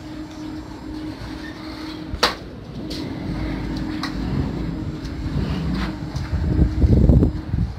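Heavy machinery at a rebar unloading site: a steady hum, a sharp clank about two seconds in, a few lighter clicks, and a low rumble that swells to its loudest near the end.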